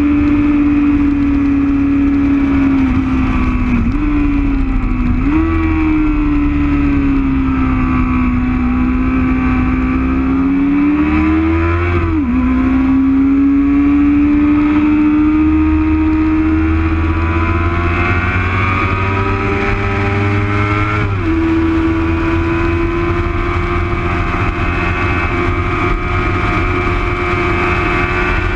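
Racing motorcycle engine at full song, recorded by its onboard camera. The engine note rises and falls slowly through the corners and drops sharply at a few gear changes.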